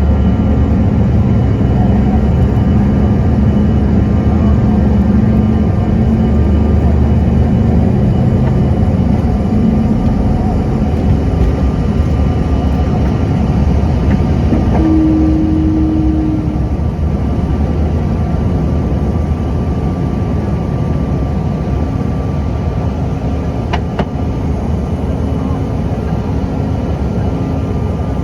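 Cabin noise of a CRJ-900 regional jet under high power on takeoff and climb: its two rear-mounted GE CF34 turbofans give a steady loud rumble with engine tones, easing slightly about halfway through. A single sharp click near the end.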